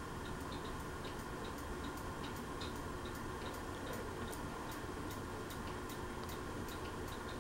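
Fanimation ceiling fan running on medium speed: a faint steady hum with a regular light ticking, about three ticks a second.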